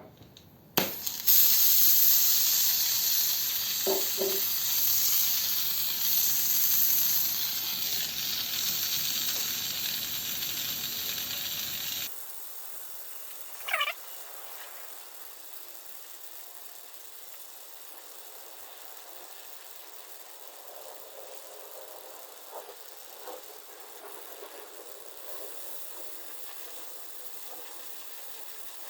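Oxy-propane gas torch burning with a loud hiss that starts suddenly about a second in, then drops abruptly to a quieter, steady hiss about twelve seconds in.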